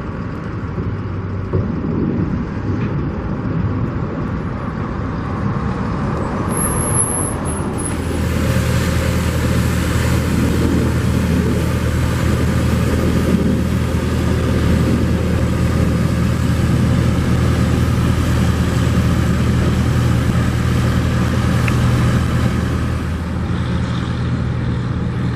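Steady motor-vehicle road noise with a low hum, growing louder and fuller about eight seconds in.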